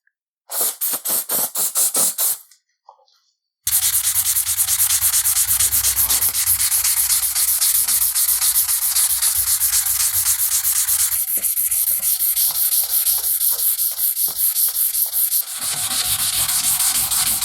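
400-grit abrasive rubbing back and forth over an oiled steel wrench during wet sanding, in quick, even strokes. It stops for about a second after the first couple of seconds, then starts again with faster, denser strokes.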